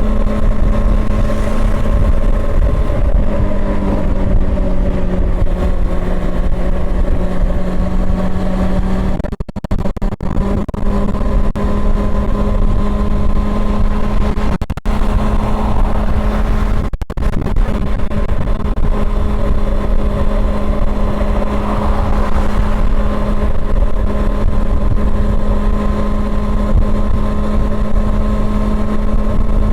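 Honda CB400 Super Four's inline-four engine running at steady riding revs. Its note dips briefly a few times around the middle.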